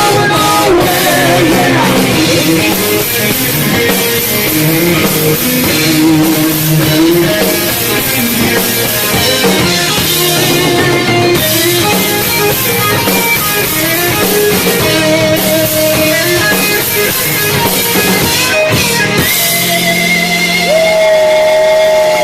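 Live heavy metal band playing loud: distorted electric guitar over a drum kit, with long held guitar notes near the end.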